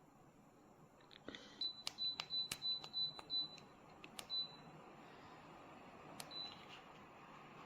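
Buttons on a standing fan's control panel being pressed in quick succession, each press giving a click and a short high beep, about eight in three seconds and then two more near the end. A faint steady hiss of the fan's airflow grows slightly louder about five seconds in.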